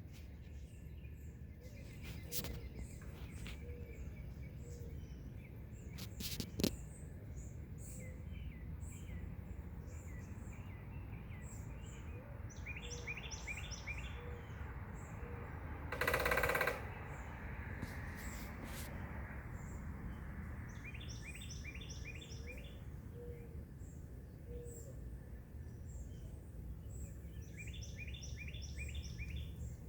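Red-bellied woodpecker drumming in a short, rapid burst on a tin roof about halfway through, the loudest sound, against steady outdoor background noise. Other birds chirp, one repeating a quick phrase of about five notes three times.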